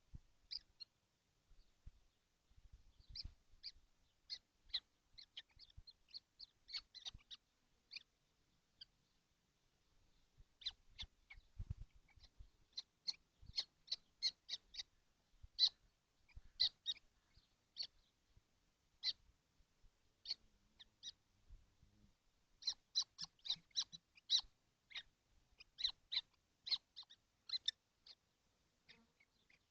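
Young common kestrels in a nest box giving many short, high squeaky calls in irregular clusters, with faint scuffling thumps beneath.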